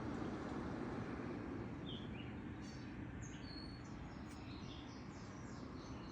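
Small birds chirping in short, high calls over a steady low background rumble; the chirps begin about two seconds in and come several times.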